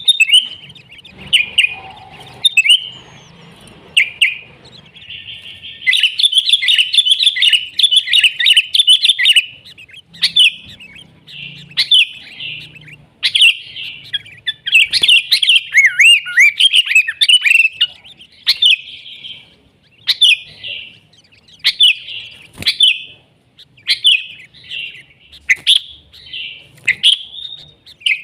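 Sooty-headed bulbul (kutilang) singing loudly: repeated bright, chirpy phrases, with two long runs of rapid chattering notes in the middle and shorter separate phrases toward the end.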